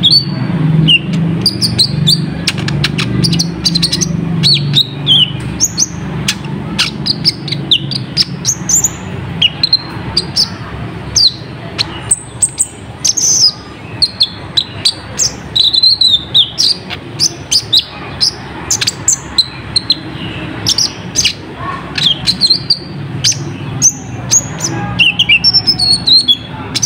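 Kolibri ninja sunbird calling in fast, sharp, high chirps and clicking ticks, repeated in quick bursts throughout. A low hum runs beneath, strongest in the first half.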